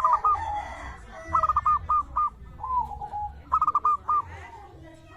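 Zebra dove (perkutut) singing. There are three bursts of four or five quick cooing notes, with a lower, drawn-out falling coo between the second and third.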